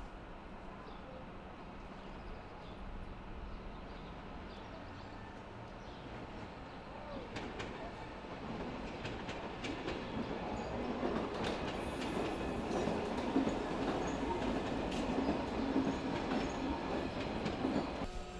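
Train running on rails: the rolling noise builds from about seven seconds in, with a scatter of sharp clicks over the wheels and track, and drops off suddenly near the end.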